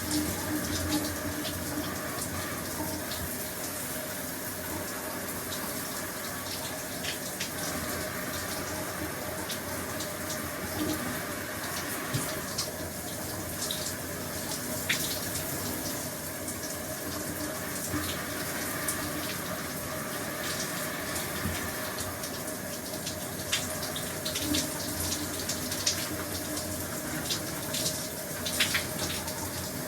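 Shower spray running steadily, water falling and splashing with scattered droplet ticks.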